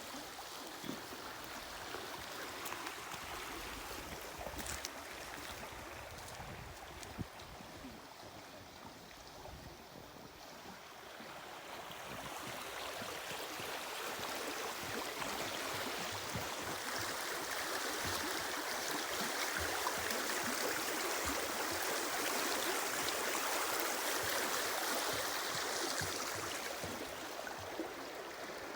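Running water of a stream, a steady rushing that grows louder from about halfway through and eases slightly near the end.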